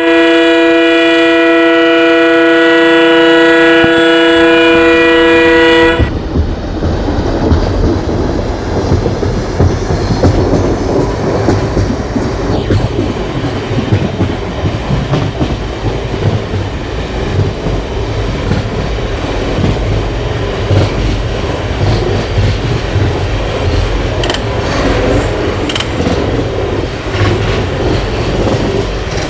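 Indian Railways diesel locomotive's horn sounding one long steady blast of about six seconds that cuts off sharply. It is followed by the rumble of the locomotive and its carriages running on the track, with occasional wheel clicks.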